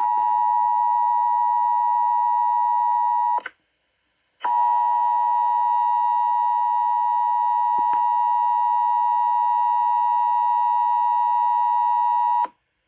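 Emergency Alert System attention signal on the radio: a loud, steady two-tone alarm near 1 kHz announcing a severe thunderstorm warning. It breaks off for about a second about three and a half seconds in, then sounds again for about eight seconds and stops just before the end.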